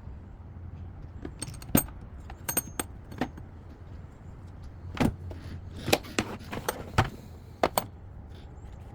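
Metal hand tools and engine parts clinking and knocking against each other, about a dozen sharp, separate clicks spread over several seconds, during hands-on work on a pit bike engine's valvetrain.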